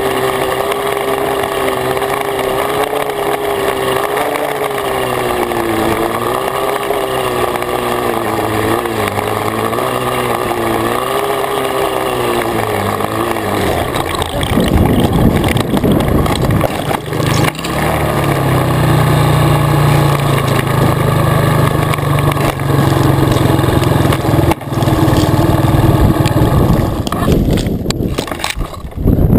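Dirt bike engine running, its pitch rising and falling as it is ridden. About halfway through, a louder rough rumble takes over, with a couple of sharp knocks.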